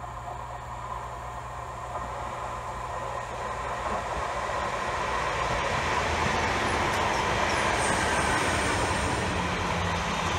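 West Midlands Railway Class 323 electric multiple unit approaching and running along the platform, its wheels and running gear on the rails growing steadily louder as it nears. A thin high-pitched squeal comes in about eight seconds in.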